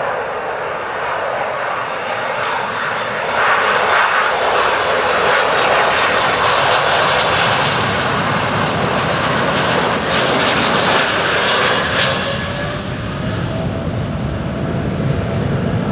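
Boeing 777-200ER's GE90 turbofan engines at high power during a touch-and-go, a loud steady jet rumble and hiss that swells about three and a half seconds in, with a faint rising whine near the end.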